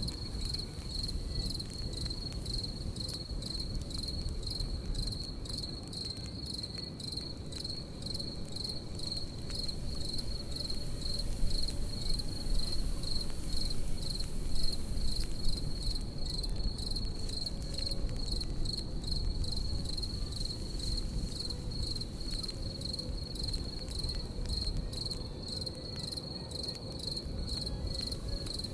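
Crickets chirping in a steady, evenly pulsed high trill over the crackle of a campfire, with scattered sharp pops and a low rush of burning. The crackles grow louder for a few seconds around the middle.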